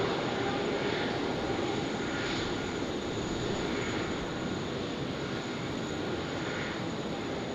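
Jet airliner engine noise: a steady rush with a faint high whine, easing slightly as it goes.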